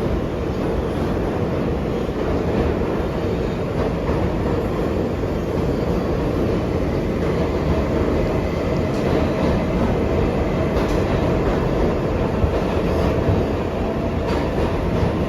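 An R142A subway car running at speed between stations, heard from inside the car: a steady rumble of wheels on rail with a few faint clicks in the second half.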